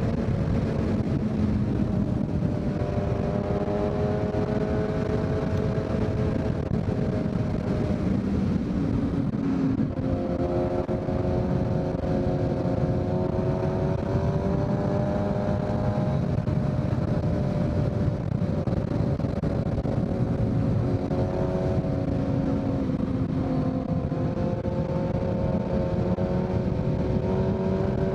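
2023 Kawasaki Z900's inline-four engine running through a full Leo Vince aftermarket exhaust, cruising at a steady throttle. Its pitch rises and falls gently a few times, with no hard revving.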